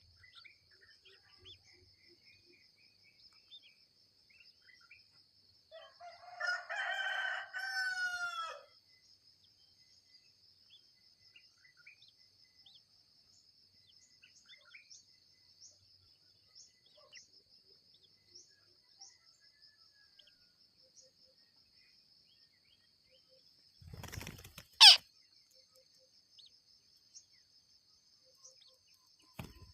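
A rooster crows once, about two and a half seconds long, over a steady high insect buzz. Near the end a brief rustle comes with a sharp falling whistle, the loudest sound of all.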